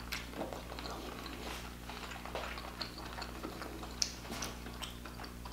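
A person chewing a mouthful of king crab meat with the mouth closed: soft, scattered wet clicks and smacks over a faint steady low hum. The meat is tough, chewy like chicken.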